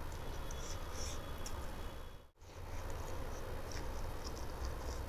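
Close-miked mouth noises of a person chewing a mouthful of chicken and rice: short wet clicks and smacks over a steady low hum. The sound drops out briefly a little over two seconds in.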